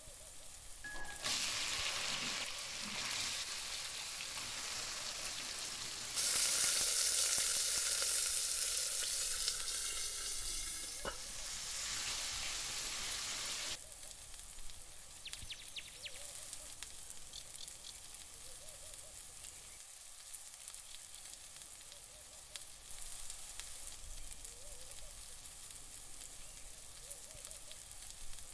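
Chopped garlic and raw chicken strips frying in hot oil in a wok: a loud, steady sizzle that grows louder about six seconds in, then drops to a faint crackling sizzle about halfway through.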